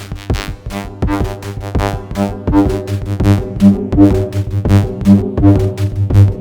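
Electronic music played live on a Behringer Edge analog percussion synthesizer with a Crows Ovum module: a steady sequenced rhythm of pitched drum hits over a pulsing bass note. It grows louder about halfway through.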